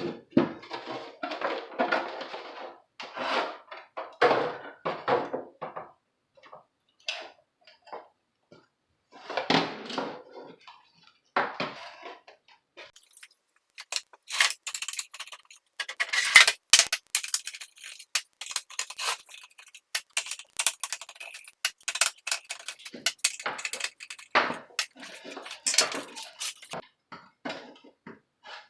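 Hard parts being handled: clattering and clinking, then from about halfway a dense run of sharp clicks and taps.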